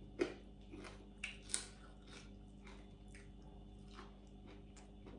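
Faint crunching and chewing of crispy deep-fried sun-dried fish: a run of short, sharp crunches, the loudest in the first two seconds.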